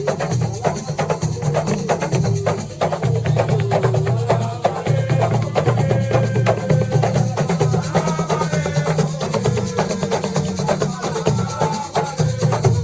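Assiko music: fast, dense percussion with deep drum strokes and a sharp clatter of struck hits, under a stepping melody line.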